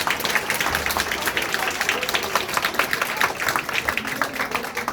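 Audience applauding, with many hand claps and scattered voices.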